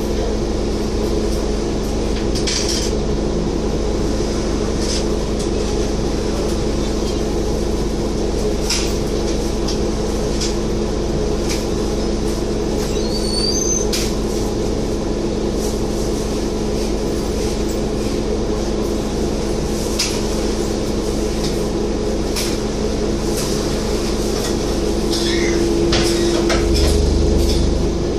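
Scania N230UD double-decker bus engine running steadily, with light rattles and clicks from the bus body. In the last few seconds the engine note rises and grows louder as the bus picks up.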